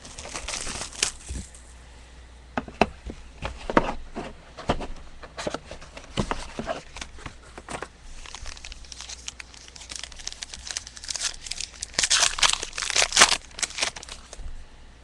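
Plastic packaging crinkling and tearing in irregular crackles as a sealed box of trading cards is unwrapped and opened, with a denser, louder burst of crinkling near the end.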